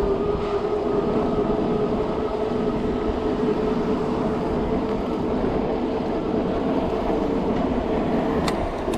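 Street traffic noise with a steady mechanical whine from a passing or nearby vehicle; the whine stops near the end with a short click.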